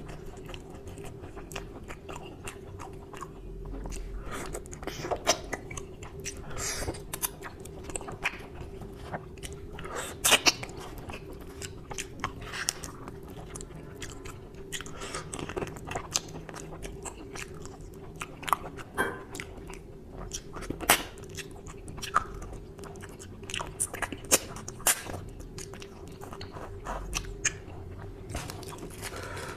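Close-miked chewing and biting of mutton curry and luchi, a steady run of wet mouth sounds broken by irregular sharp clicks and crackles.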